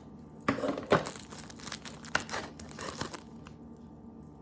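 Packaging from a gingerbread kit crinkling and being torn as it is handled, in several short bursts.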